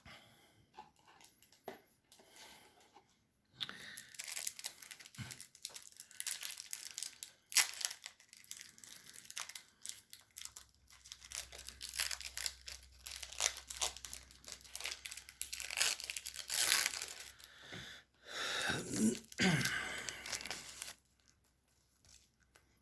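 Paper or foil trading-card pack wrapper being torn open and crinkled by hand, a dense run of tearing and crackling.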